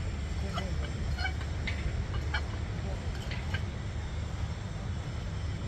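A heavy engine running steadily with a low rumble, with a dozen or so brief faint high calls scattered over it.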